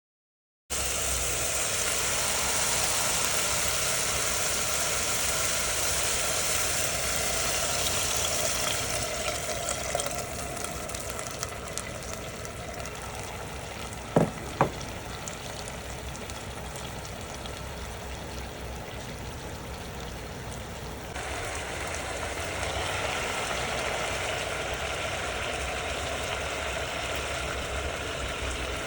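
Food sizzling as it fries in a pan, a steady hiss that changes character twice. Two sharp knocks come close together about halfway through.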